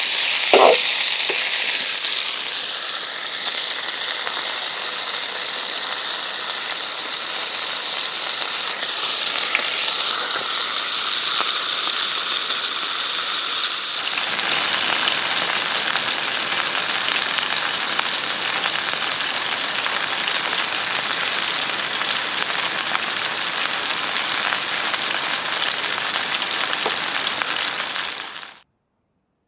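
Food sizzling steadily in a hot pan over a campfire, with a sharp knock about half a second in. The sizzle changes character about halfway through and cuts off suddenly near the end.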